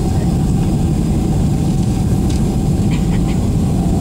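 Steady cabin noise of a Boeing 767-300 airliner in flight: a low, even rumble of its jet engines and the air rushing past, with a faint steady tone running through it. A few light ticks come in the second half.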